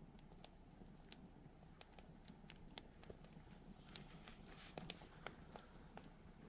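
Wood campfire crackling faintly, with irregular sharp pops and snaps and a brief hiss about four seconds in.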